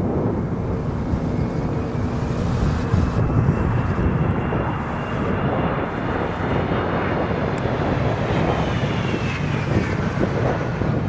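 Jet airliner on landing approach passing by, its engine whine rising and then falling in pitch, over heavy rumbling wind buffeting the microphone.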